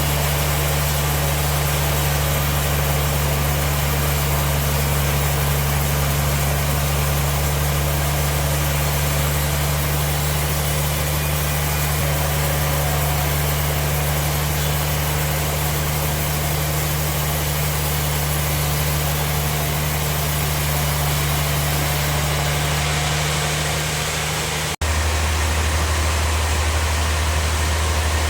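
Bandsaw sawmill machinery running with a steady, loud hum. It drops out for an instant near the end and comes back at a slightly different pitch.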